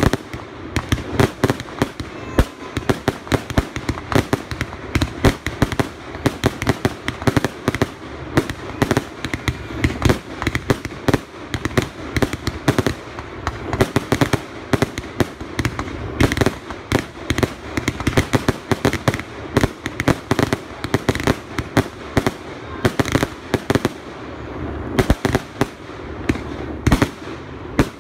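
Fireworks display: a rapid, unbroken run of bangs from exploding shells, several a second.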